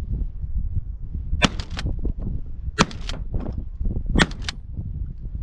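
Shotgun fire at feral pigeons: three sharp reports about a second and a half apart, each followed closely by a second crack.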